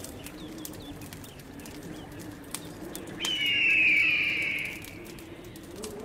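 Bird calls over a steady low hum, with small chirps and clicks; about three seconds in, a loud whistled call slides down in pitch and lasts about a second and a half.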